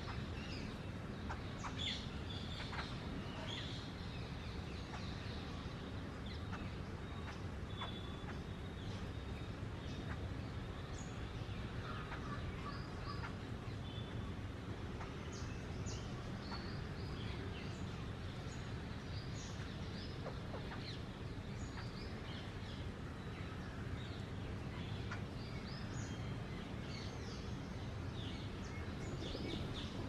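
Babblers chattering with many short chirps and squeaks scattered through, over a steady low background rumble.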